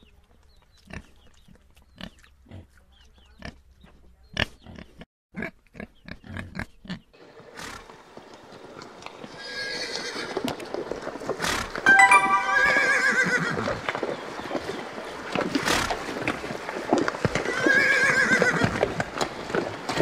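A pig rooting and chewing, a run of sparse sharp clicks and crunches, then after a cut horses whinnying and neighing, with a loud whinny about twelve seconds in and another near the end over a dense background of herd noise.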